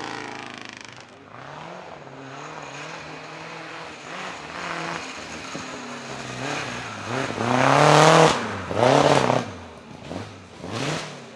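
Vintage racing car's engine accelerating hard, its revs climbing and dropping several times and loudest about eight and nine seconds in.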